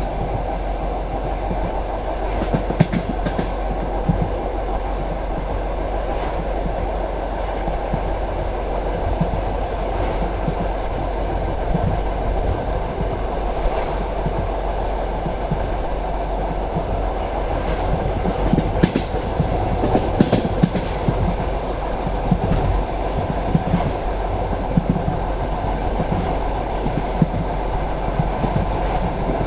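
Passenger train carriage running along the line: a steady rumble of wheels on track with scattered clicks as the wheels pass over rail joints. A thin, high steady whine comes in near the end.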